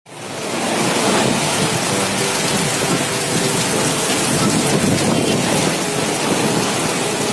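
Heavy rain pouring down as a steady, dense hiss, fading in over the first second.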